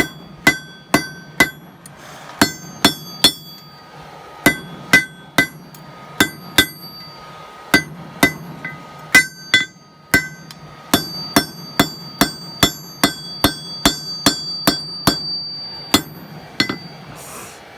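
Hand hammer striking hot steel on an anvil, about two blows a second in runs with short pauses, each blow leaving a metallic ring. A steady low hum runs underneath. By the helper's account the steel is being hammered after it has cooled too far.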